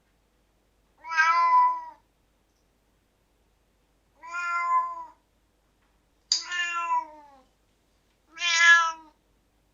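Domestic cat meowing four times, each meow under a second long with a slight fall in pitch at the end, separated by silence.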